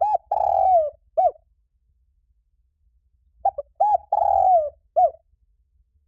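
Spotted dove singing: two repeats of its cooing phrase, a few seconds apart. Each phrase is a couple of short coos, then a long hoarse coo that falls in pitch, then one short closing coo.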